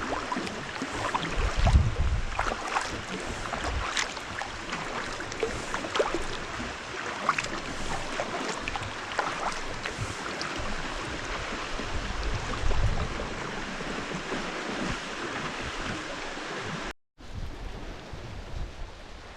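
Lake water splashing and lapping around a kayak, with irregular small splashes throughout and wind rumbling on the microphone in gusts. The sound cuts out completely for a moment near the end.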